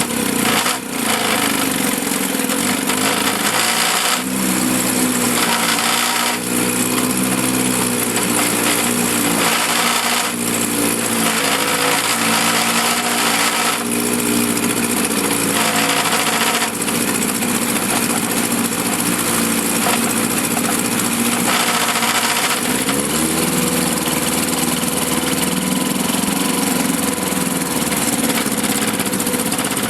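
1954 Johnson CD-10 5.5 hp two-stroke outboard motor running in a test barrel, its engine speed shifting a few times, most clearly about five seconds in and again near the twenty-three second mark.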